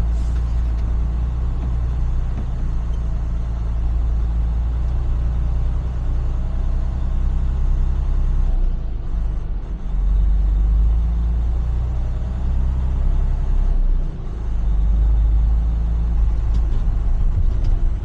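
Semi truck's diesel engine running steadily while driving, a constant low rumble with two brief dips in level, about halfway through and again near the end.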